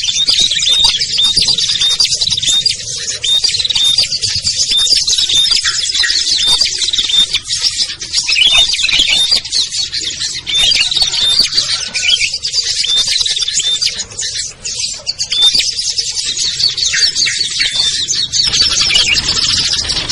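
Dense chorus of small songbirds chirping and twittering all at once, many quick high notes overlapping without a break.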